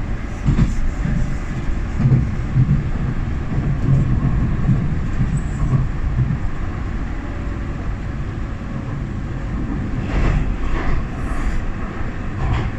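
Docklands Light Railway train running, heard from inside the carriage: a steady low rumble of wheels on track, with a few knocks in the first couple of seconds.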